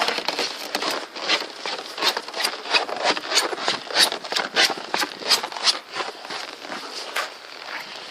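Footsteps on dry, hard-frozen snow at about −30 °C, each step a sharp squeaking crunch, several a second in a steady run; the squeak is typical of snow in deep frost.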